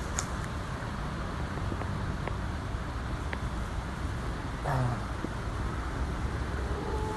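Strong wind buffeting the phone's microphone: a steady low rumble with a few faint ticks, and a brief louder bump about two-thirds of the way through.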